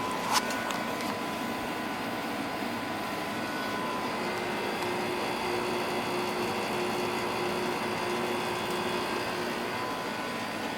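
Window air conditioner switched from fan only to low cool with one sharp click, after which its fan and compressor run steadily together.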